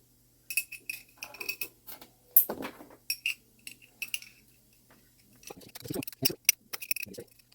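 Clock mainspring and its barrel clicking and clinking as the spring is worked into the barrel by hand: scattered metallic clicks, some with a brief ring, coming thicker near the end.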